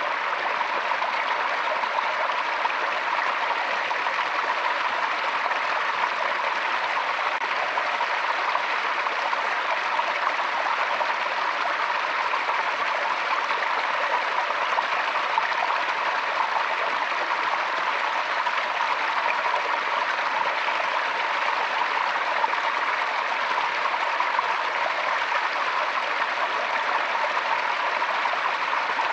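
Forest stream flowing with a steady, unbroken water sound.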